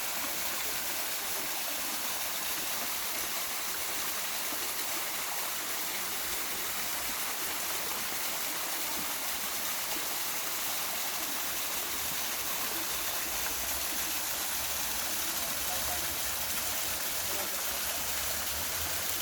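Waterfall: a steady, unbroken rush and hiss of falling water.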